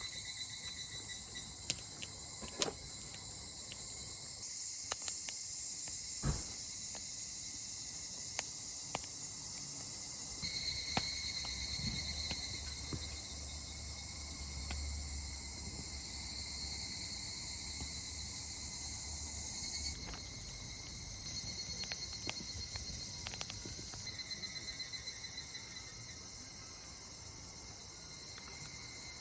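Insects, crickets or similar, chirping steadily in several high, pulsing tones, with occasional sharp clicks and knocks.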